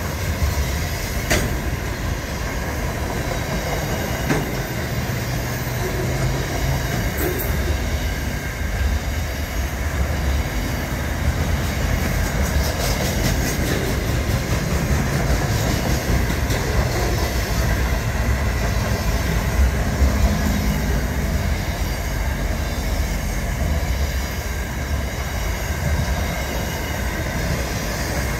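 Container freight train passing close by: a steady low rumble of wagons rolling over the rails, with a few sharp clicks and clacks from the wheels.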